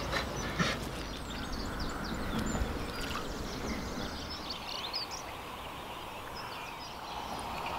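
Birds chirping and calling, many short high notes scattered over a steady background hiss of outdoor noise.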